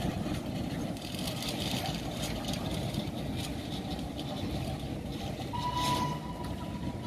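Miniature railway train running away along the track: a steady low rumble with faint wheel clatter. A thin steady tone comes in about five and a half seconds in.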